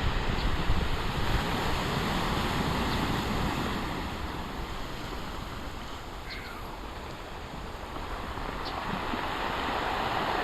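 Large storm-driven waves breaking and washing ashore, with wind buffeting the microphone. The surf noise eases off through the middle and builds again near the end.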